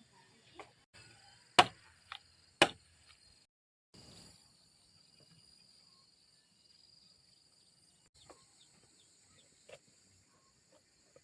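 Steady high chirring of insects, with a few sharp knocks; two loud ones come about a second apart near the start.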